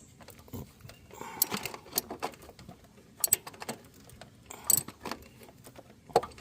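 Metal wrench clinking and clicking in irregular sharp taps while a starter bolt is tightened.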